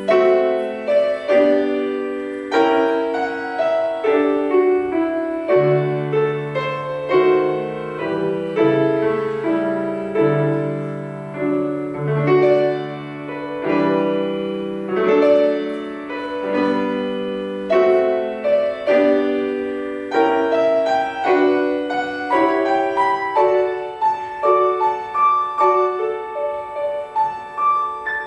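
Solo piano playing a slow classical piece, with chords over a moving bass line. Near the end it moves up to higher, quieter notes.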